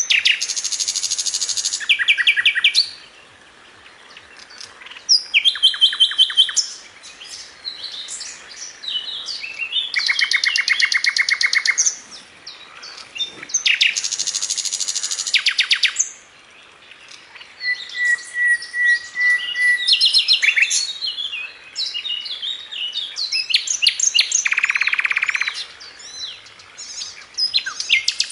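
A songbird singing a long, varied, high-pitched song of fast rattling trills and whistled phrases, with short pauses between phrases.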